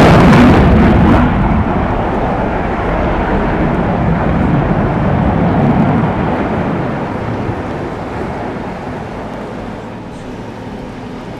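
Aircraft flying past at an air show: a loud engine roar at the start that drops after about a second and then fades steadily as the plane moves away.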